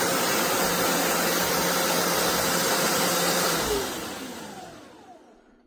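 Carpet shampooer's suction motor running with a loud, steady rush, then shut off a little under four seconds in and winding down, its whine falling in pitch as it fades away.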